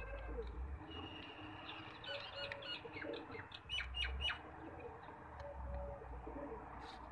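Birds calling: a quick run of high, squeaky chirping calls from about two to four and a half seconds in, with a low cooing note twice in the background.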